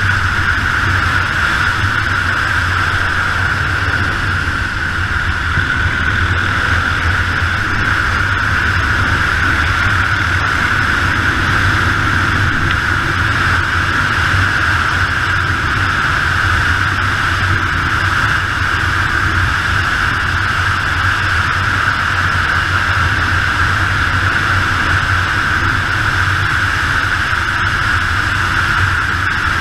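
Yamaha XT 600 single-cylinder four-stroke engine running steadily at road speed, under a constant rush of wind noise on the helmet or bike-mounted microphone.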